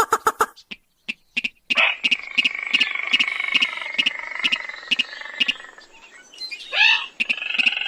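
Lure recording of rail calls (sintar / mandar padi): sharp ticks repeat about three times a second, with a long stacked call from about two seconds in to about six seconds, and a short rising call near the end.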